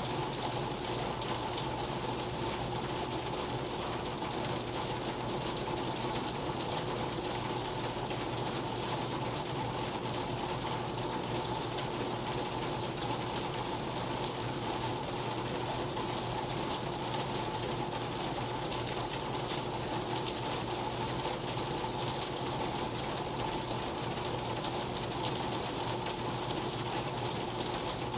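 Steady rain, an unbroken patter with fine ticks of individual drops.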